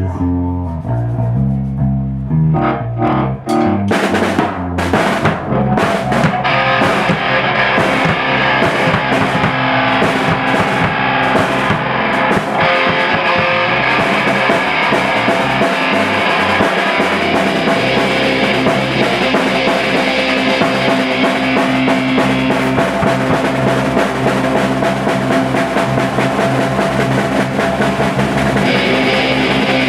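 Rock band playing loud in rehearsal, with electric guitar and a drum kit. A few separate drum hits come first, then the full band plays together from about six seconds in.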